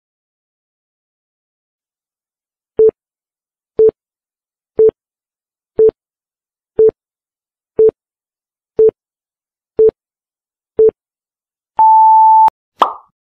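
Quiz countdown-timer beeps: nine short, low beeps one a second, then a longer, higher beep as the timer reaches zero, followed by a sharp click and a short, quickly fading sound effect.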